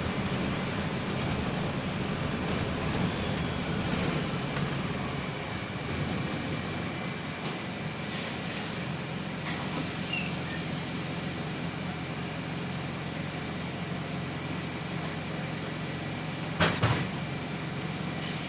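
Inside bus WS120 while it runs: a steady rumble of engine and road noise with a thin high whine over it. A few faint clicks come through, and a sharp bang near the end, which fits the bus's weird shooting noise.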